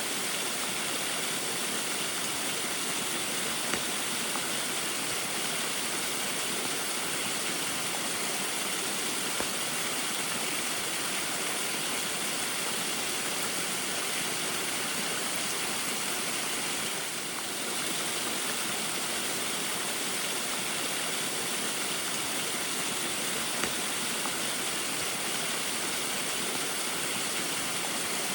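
Small waterfall splashing steadily in the rain, an even rush of falling water. It goes briefly a little softer a little past halfway.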